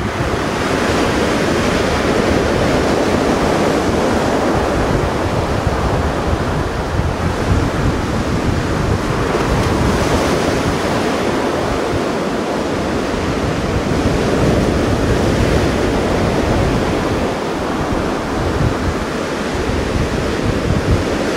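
Mediterranean sea surf washing on the shore, a steady rush that swells and eases, with wind buffeting the microphone.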